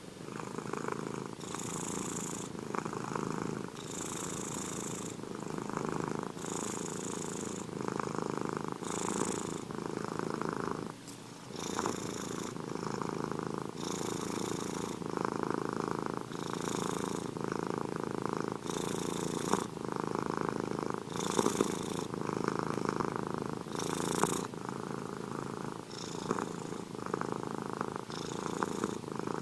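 Domestic cat purring close up, with a steady low rumble that swells and eases with each breath in and out every second or two. The purr breaks briefly about eleven seconds in.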